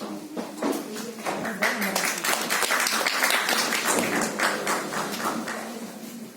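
Audience applauding: the clapping swells about a second in, holds, then dies away near the end.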